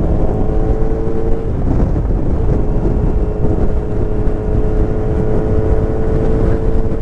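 Kawasaki Z900's inline-four engine running at a steady pitch while riding, with wind rushing over the microphone. The engine note briefly breaks up about a second and a half in, then settles back to a steady tone.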